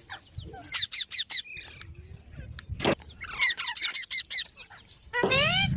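A green parrot giving short, sharp calls in quick runs of four or five, then a louder, longer wavering call near the end. A single tap comes about three seconds in.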